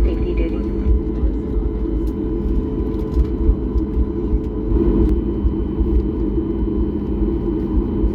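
Steady low rumble inside an airliner cabin as the jet taxis after landing, with a few faint steady tones above it.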